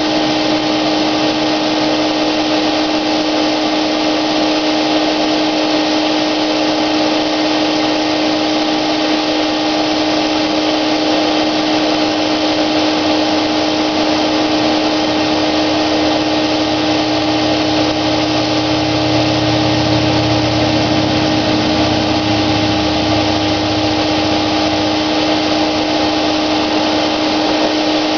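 Wagner electric paint sprayer running continuously with a steady whine over a loud rushing hiss, as it does while the paint is sprayed. A deeper hum swells for a while in the second half.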